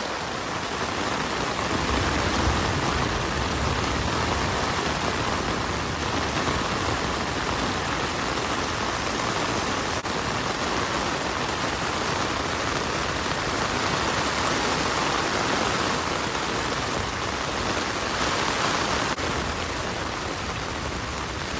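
Heavy rain falling on a tent, heard from inside it: a steady, even hiss of rain on the fabric.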